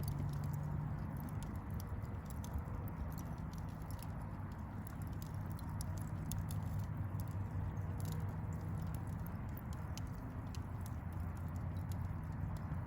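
A fire crackling: many quick, irregular pops and snaps over a steady low rumble.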